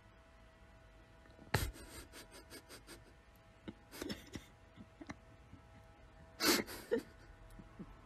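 A dog's teeth knocking and clicking against a wooden banister spindle as it gnaws the stair railing. A sharp knock comes about a second and a half in, then a quick run of clicks, more clicks around four seconds, and two short noisy bursts near the end.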